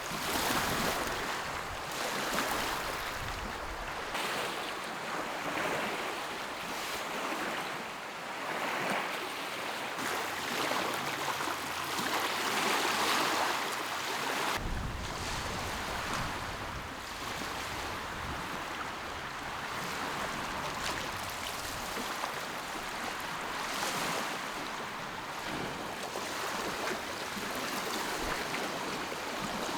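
Small lake waves lapping on the shore: a steady wash of water that swells and fades every few seconds.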